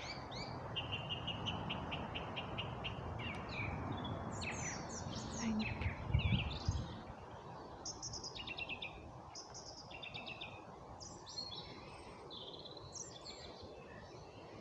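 Several wild birds singing and calling: a rapid trill of evenly repeated notes in the first few seconds, then assorted short chirps and whistles, over a steady background hum. A brief low rumble on the microphone about six seconds in is the loudest sound.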